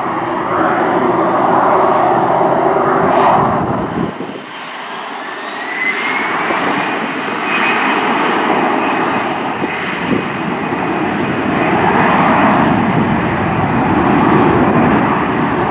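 Jet airliner engines running loudly, with a whine that rises in pitch from about four seconds in and then holds steady.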